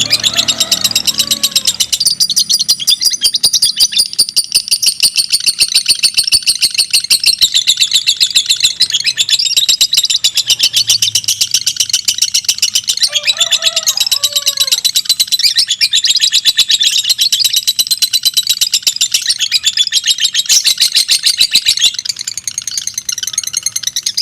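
Two pied ('mentil') lovebirds chattering against each other in the long, rapid, unbroken 'ngekek' trill of fighter lovebirds, with a few short lower gliding calls about halfway through.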